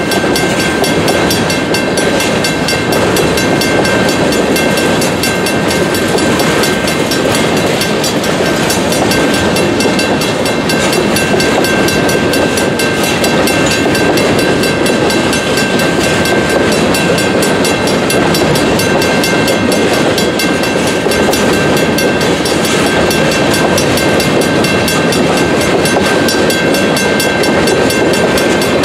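Empty covered grain hopper cars rolling steadily through a road crossing, their wheels clacking over the rails. Over it the crossing's WC Hayes mechanical bell rings on steadily.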